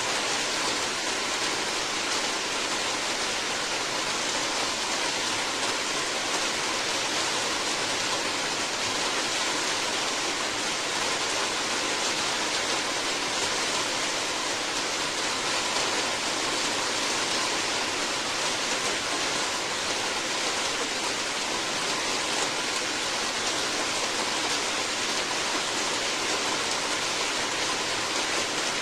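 Steady heavy rain, an even unbroken hiss of water with no separate drops or thunder standing out.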